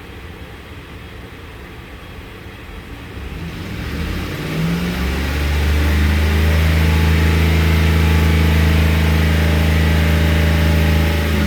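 2010 Lincoln Navigator's 5.4-litre V8 running at a low idle, then revved up about four seconds in and held at a steady higher speed for about six seconds, easing back off near the end.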